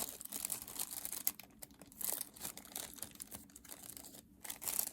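Plastic packet crinkling and crackling in irregular bursts as it is handled and opened.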